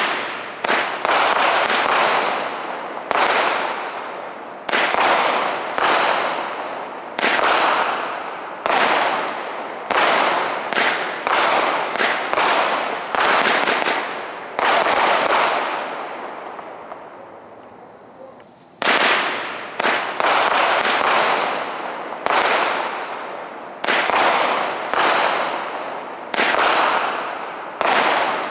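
Consumer fireworks cake firing shot after shot, about two dozen sharp reports. Each report trails off in a short fading rumble, with little deep boom. The shots come in quick runs, with a gap of about three seconds from around 16 to 19 seconds in before firing resumes.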